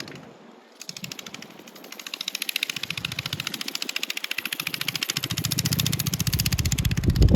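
Mini bike's 212cc Predator single-cylinder engine running hard under throttle. It is faint at first, then grows steadily louder as the bike comes closer, and is loudest near the end with a low thump.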